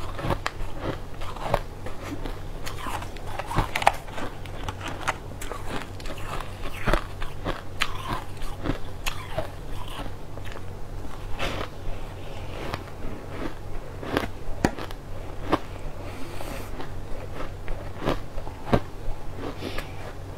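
Close-up mouth sounds of crunching and chewing a crunchy granular pink-and-green sweet, with irregular sharp crunches throughout. A steady low hum runs underneath.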